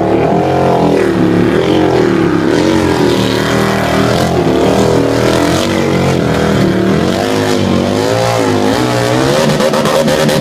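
Harley-Davidson V-Rod's V-twin engine running hard under load while pulling a weight sled, its revs rising and falling about once a second as the throttle is worked. The revs drop away near the end.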